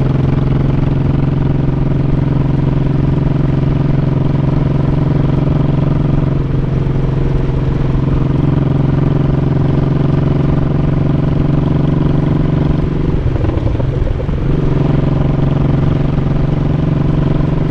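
Honda Shadow 1100 V-twin motorcycle engine running steadily while riding, heard from on the bike, with a brief change in the engine note about two-thirds of the way through.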